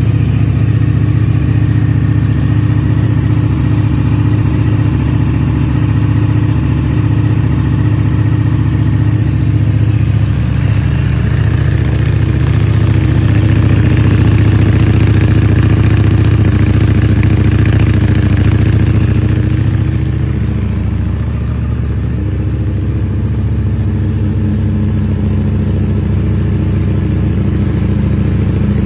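Ducati Panigale V4S's V4 engine idling through an Akrapovič exhaust, a steady deep note. It grows a little louder through the middle, then settles back down about twenty seconds in.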